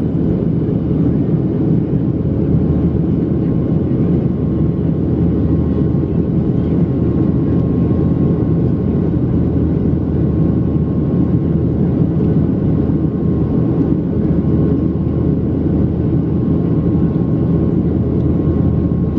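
Steady cabin noise of a Boeing 737-700 in flight: the drone of its CFM56-7 turbofan engines mixed with the rush of air, with a faint steady hum at a few fixed pitches.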